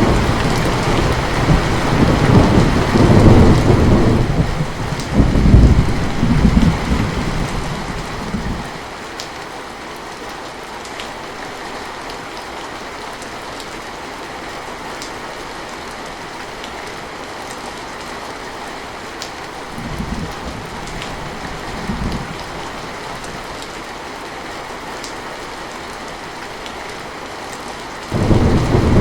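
Heavy rain falling steadily, with a long roll of thunder for the first eight seconds or so. Two short low rumbles come in the middle, and thunder rolls in again near the end.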